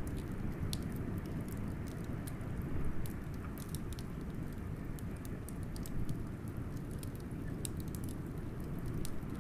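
Wood fire crackling with irregular sharp pops and snaps over a steady low rush of blizzard wind.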